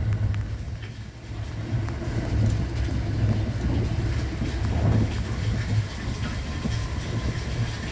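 Thunderbird limited express train running along the track, a steady low rumble with faint rail clatter.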